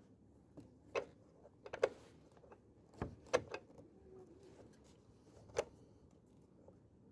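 Scattered sharp clicks and light knocks of small parts or tools being handled, several in the first half and one more past the middle, with quiet in between.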